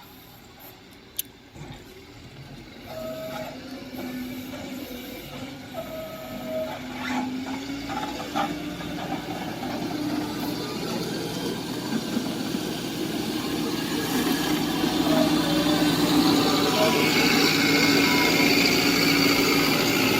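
Heavy diesel engine running and growing steadily louder, as a truck or excavator comes closer or works harder.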